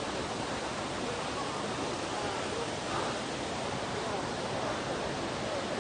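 Waterfall with a lot of water pouring down, a steady, unbroken rushing noise, with faint voices in it.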